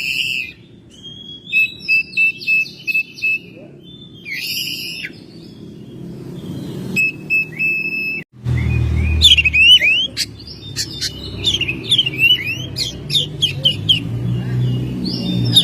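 Oriental magpie-robin (kacer) singing a varied run of whistled notes and chirps. About eight seconds in the sound breaks off sharply, and a quicker series of rising chirps follows over a low steady hum.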